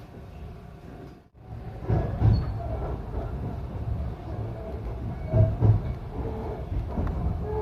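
Electric local train pulling away from a station, heard from inside the car: a steady low running rumble with heavy thuds of the wheels over rail joints. A brief break in the sound comes about a second in.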